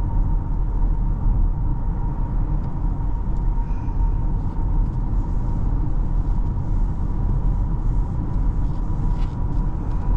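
Cabin sound of a 2024 Porsche Cayenne driving on wet roads: a steady low road and tyre rumble mixed with the engine, with a faint steady whine running under it.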